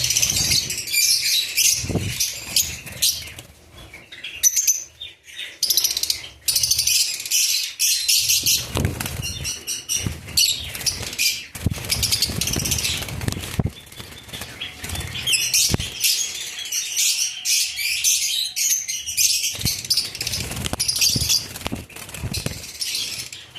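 A flock of lovebirds chattering in dense, rapid high-pitched chirps, with bouts of wing flapping now and then.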